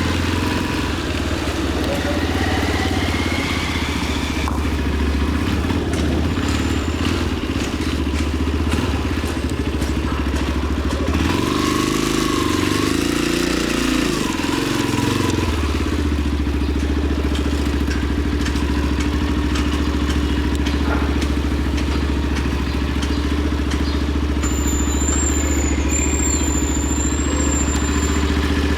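Motorcycle engine running steadily while riding, with a brief rise and fall in pitch about halfway through.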